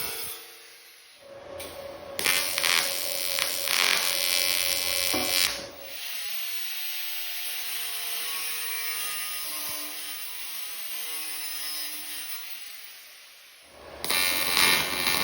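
Angle grinder with a cutoff wheel nibbling at 16-gauge sheet-metal seams, in loud bursts of cutting over the motor's steady whine, with a quieter spell of running between them.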